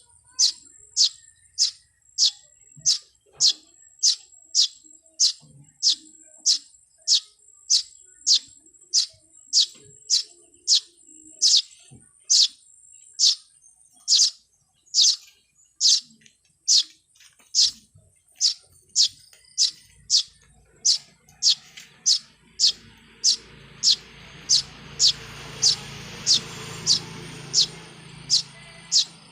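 A bird repeating one short, high chirp that sweeps down in pitch, over and over at an even pace of about one and a half a second. In the last third a low rumbling noise swells underneath for several seconds, then fades.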